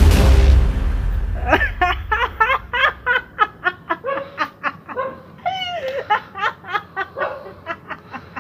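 A man's loud, drawn-out maniacal laugh: a fast string of 'ha' sounds, about four a second, with a longer rising-and-falling cry midway through. Background music is cut off about a second in, before the laugh begins.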